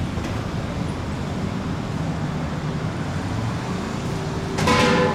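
Steady rumble of road traffic on a city street. Near the end a short, loud pitched sound cuts in.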